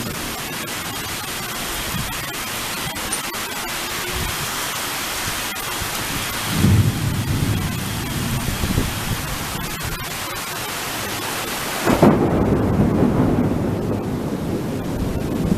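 Thunderstorm: steady rain hiss with thunder rumbling twice, about seven seconds in and again, louder and longer, about twelve seconds in.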